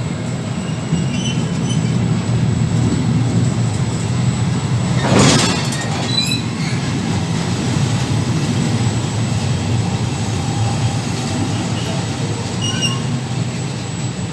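Train rolling past on the rails: a steady low rumble of wheels on track, with a few short wheel squeals and one sharp clank about five seconds in.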